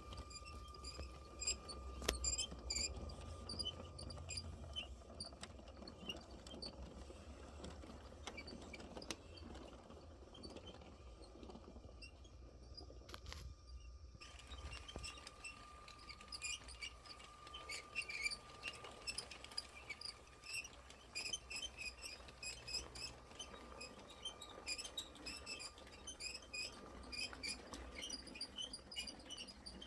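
LEGO train running on plastic track: a continuous patter of light, rapid clicks from the wheels and rolling stock over the rails, over a steady faint motor whine. The clicking is sparser early on, briefly drops out about thirteen seconds in, then grows busier.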